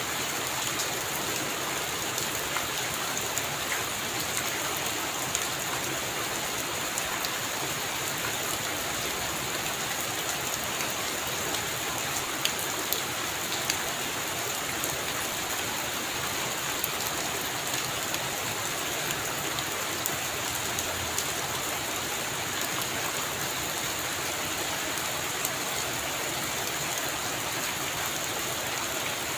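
Heavy rain falling steadily, with individual drops ticking sharply every now and then.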